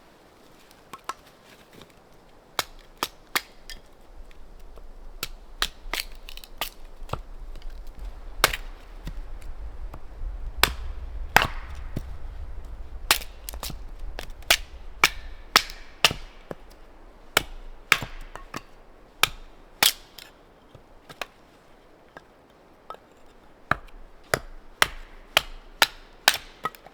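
A string of sharp, irregular knocks and cracks, roughly one or two a second, over a low rumble through the first half.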